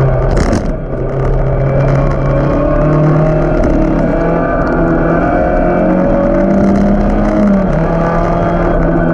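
Engine of a 1600cc-class Toyota race car heard from inside the cabin, running hard under acceleration. The engine note rises in steps and then drops sharply near the end; about half a second in there is a brief dip in loudness with a short hiss.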